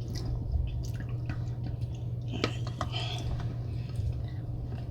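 Wet, sticky eating sounds from a seafood boil in buttery sauce: small squishes, drips and irregular clicks of shells being handled, with one sharp click about two and a half seconds in. A steady low hum runs underneath.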